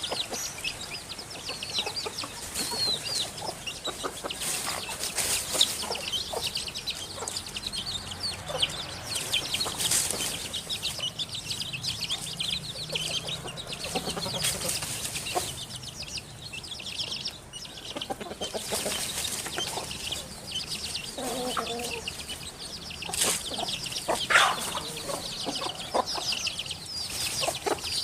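Birds calling continuously in many quick, high chirps, with scattered sharp clicks or wing flutters.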